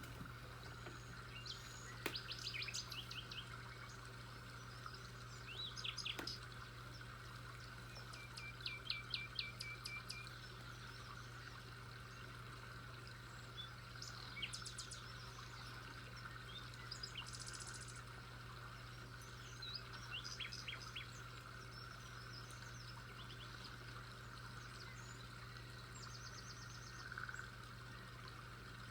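Birds chirping: short runs of quick, high repeated notes every few seconds, over a steady low hum.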